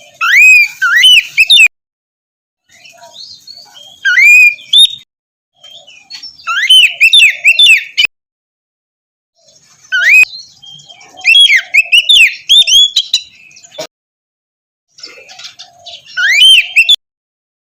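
Oriental magpie-robin (kacer) singing: about five bursts of whistled phrases with notes sweeping up and down, separated by short pauses.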